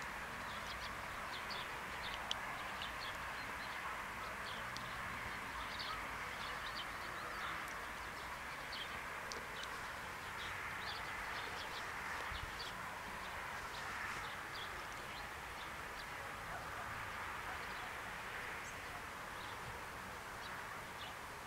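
Small birds chirping in short, irregular calls over a steady background hiss.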